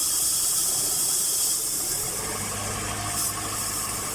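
Hyundai car engine running after a start attempt, with a strong hiss at first; a steady low hum comes in about two seconds in. The car's no-start fault is traced to its fuel supply.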